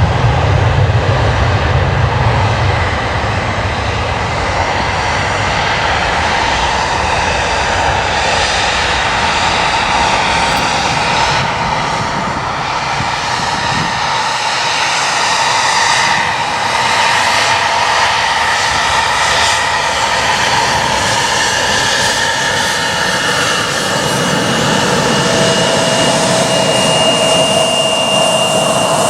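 Jet aircraft's engines running loud and steady, a dense rush with whining tones that shift in pitch; a low rumble fades away in the first few seconds.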